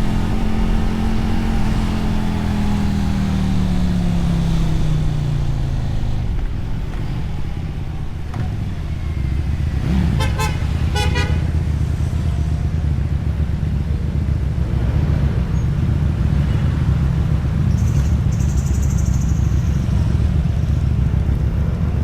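Motorcycle engine and road noise heard from the rider's position: the engine pitch falls steadily over the first few seconds as the bike slows, then settles into a steady low rumble. Two short horn toots come about ten seconds in.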